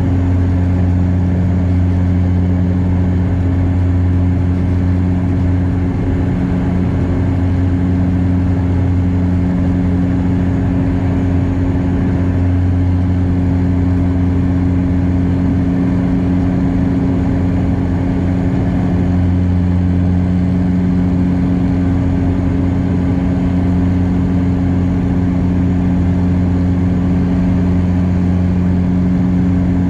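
Bombardier DHC-8 Q400 turboprop engines and propellers heard inside the cabin: a loud, steady low drone with a hum of even low tones that holds level throughout.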